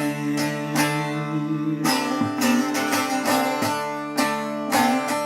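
Instrumental music: a plucked string instrument playing a melody of evenly spaced plucked notes over a steady held low accompaniment, with no singing.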